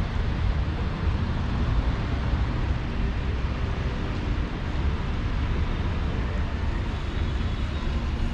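Steady city street noise: a continuous, even rumble of traffic.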